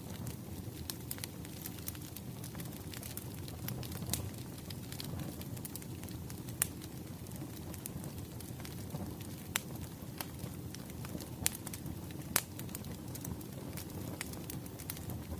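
Wood fire burning, a steady low rumble with frequent irregular crackles and pops of burning logs, a few sharper snaps standing out.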